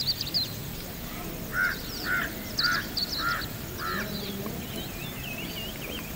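Birds calling: a run of five short, identical calls about half a second apart, with higher chirps and a warbling phrase from smaller birds around them.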